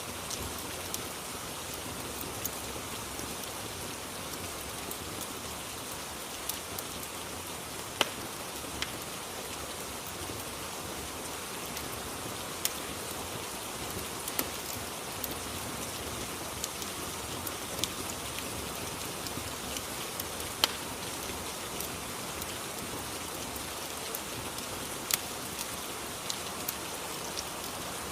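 Steady rain ambience, an even hiss of rainfall, with scattered sharp pops and clicks every second or few from a crackling fireplace; two pops stand out louder than the rest.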